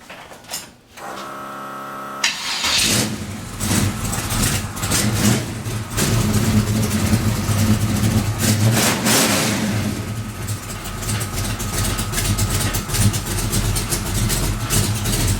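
A 1998 Chevy S10's 383 stroker small-block V8 (about 10:1 compression, pump-gas build) is cranked by the starter for about a second, fires, and runs with several blips of the throttle. The truck has a known exhaust leak at the passenger-side header collector.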